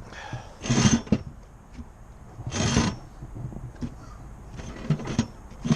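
Short scrapes and knocks of something being handled and set in place: three or four rubbing scrapes, each about half a second long, with light knocks between them.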